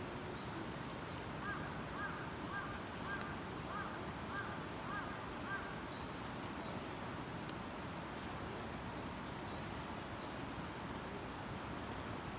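A bird calls a quick run of about seven short, evenly spaced notes over a steady rushing background, with scattered small crackles from a wood campfire.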